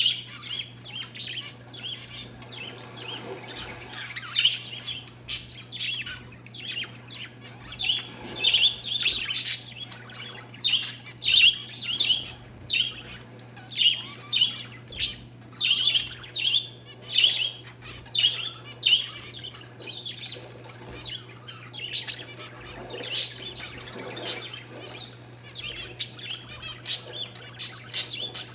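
Parakeets and zebra finches chirping: a constant, busy stream of short, quick calls and sharp tweets, several a second, over a steady low hum.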